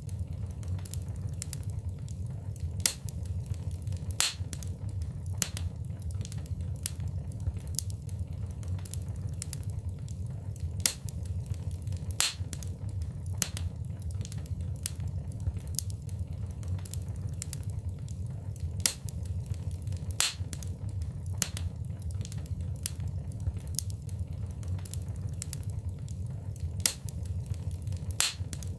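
Fire in a fireplace crackling, with irregular sharp pops of varying loudness over a steady low rumble.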